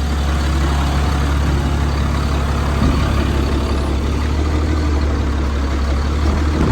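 Caterpillar diesel engine of a 2004 GMC truck idling steadily, with a deep even hum.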